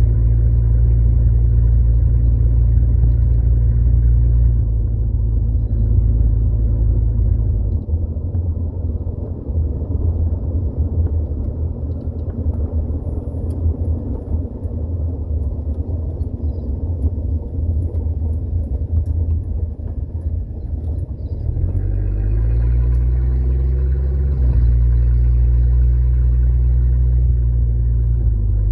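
1979 Ford Granada's engine and road noise while driving: a steady low hum, then a rougher rumble through the middle stretch. About 22 seconds in the engine note rises for a couple of seconds, then settles into a steady cruise.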